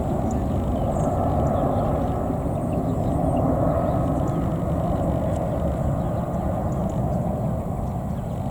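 Jet engine noise from an Airbus A319-111 with CFM56 turbofans: a steady, loud roar that swells slightly about halfway through.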